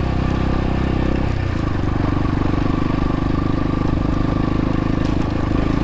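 X-Pro Templar X 250 dirt bike engine running; its note drops about a second and a half in, then holds steady.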